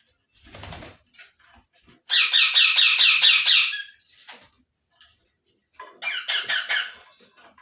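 Rose-ringed (Indian ringneck) parakeet squawking in fast runs of harsh, rapidly repeated calls, a long loud bout about two seconds in and a shorter one near the end.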